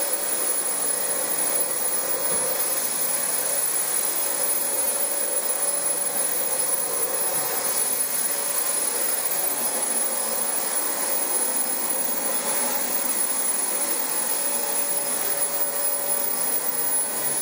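Dyson DC25 upright vacuum cleaner running steadily with a high-pitched whine.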